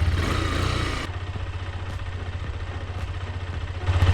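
KTM Duke 125's single-cylinder four-stroke engine idling steadily, freshly running again after its fault codes were reset and not cutting out. Louder at first, it drops in level about a second in and comes back up near the end.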